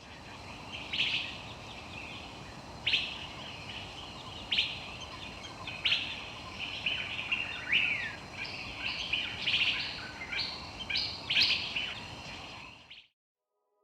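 Wild birds calling and chirping over a steady background hiss: a sharp call repeats roughly every one and a half seconds, then a busier run of varied chirps, all fading out near the end.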